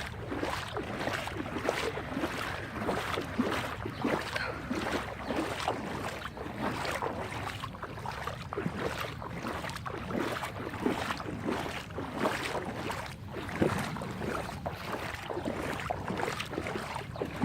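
Person wading through deep floodwater on a street, the water sloshing and splashing around the legs in an irregular stream of small splashes.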